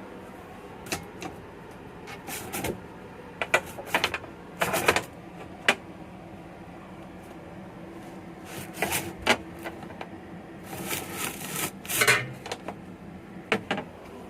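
Irregular clicks, knocks and short rustles over a steady low hum in a train carriage, with two bunches of handling noises, one a few seconds in and one in the second half.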